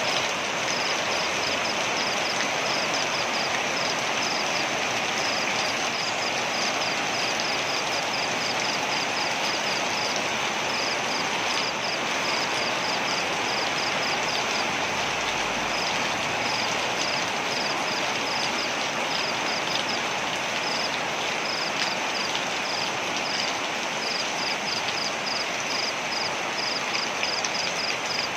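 Waterfall rushing steadily, with a high, rapid chirping trill in short runs with brief gaps over the roar.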